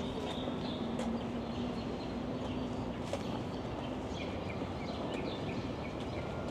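Small birds chirping in short, repeated calls over a steady low rumble of wind and city background.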